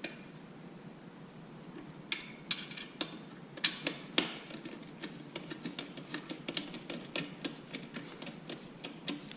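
A hand wrench clicking and clinking on metal as a bolt on a motorcycle slip-on exhaust is tightened. A few sharp clinks come about two to four seconds in, then a run of quick, regular clicks.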